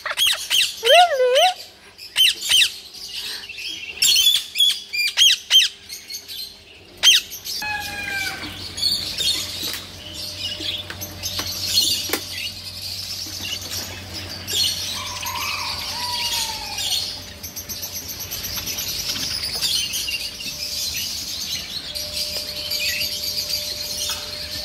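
Green parrot squawking: a quick run of loud calls that swoop up and down in pitch. After about seven seconds come a few falling chirps, then quieter occasional calls over a steady high-pitched background noise.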